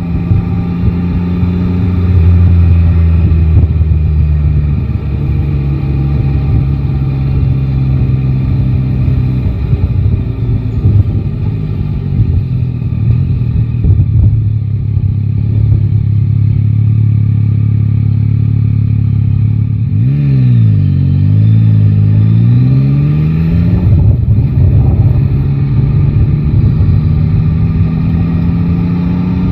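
Yamaha Tracer 9 GT's inline-three engine running under way at fairly steady revs. About two-thirds of the way through, the revs fall and then climb back up.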